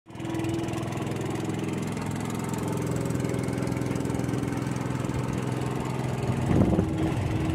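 A motor engine running steadily at an even speed, with a brief louder, rougher patch near the end.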